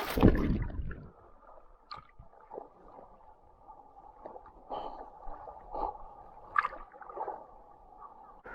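A loud rush of water in the first second, then quiet gurgling water with scattered light knocks, as around a kayak on the water.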